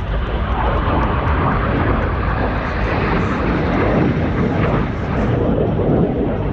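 Jet engine noise from BAE Hawk T1 display jets flying past: a steady, loud rush with a strong low rumble that swells slightly near the middle.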